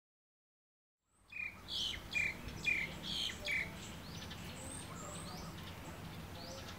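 Silence for about a second, then birds chirping: a quick run of about five louder chirps, then fainter chirps over a steady low background hiss.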